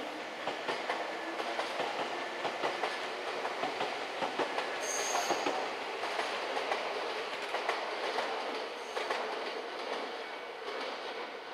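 Electric commuter train running over rail joints and points, its wheels clattering in a dense clickety-clack, with a brief high wheel squeal about five seconds in.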